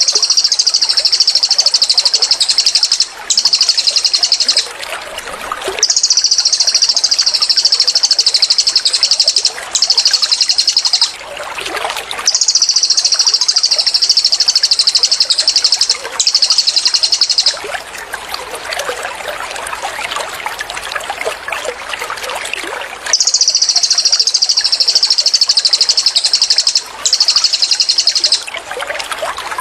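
Cililin songbird giving its rapid-fire 'tembakan' song: high, fast rattling trills in bursts of a few seconds, each long burst followed closely by a shorter one, over a continuous trickle of water. For about five seconds past the middle the bird stops and only the water trickling is heard.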